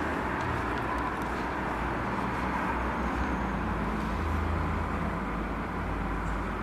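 Steady low rumble of motor vehicles, with even background noise and no distinct events.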